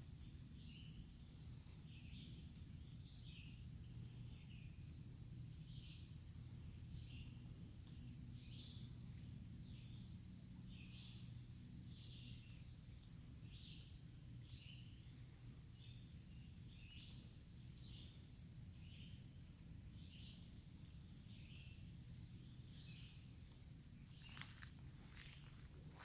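Faint forest insect chorus: a steady high-pitched drone with short chirps repeating about once a second, over a low hum. Footsteps begin near the end.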